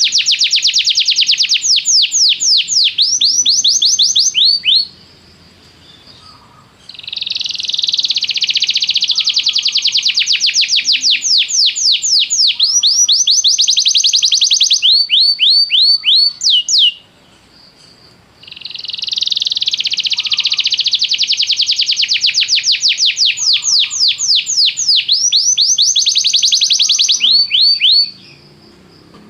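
Canary singing: long phrases of fast repeated trilled notes, each note a quick sweep, rolling in three bursts with short pauses between them.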